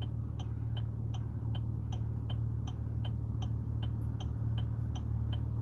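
Car's turn-signal indicator ticking evenly, about two and a half ticks a second, over the steady low hum of the car running on the road, heard inside the cabin.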